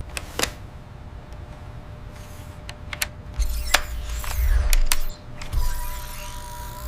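Sound effects of a sci-fi machine starting up: scattered mechanical clicks, a low rumble swelling in the middle, then a steady electronic tone near the end.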